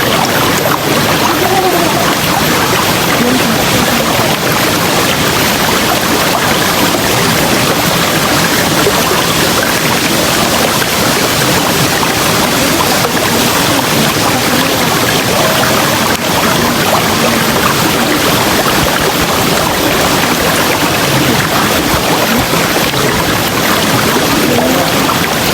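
River water rushing steadily over rocks, a dense even wash of sound with small gurgles through it.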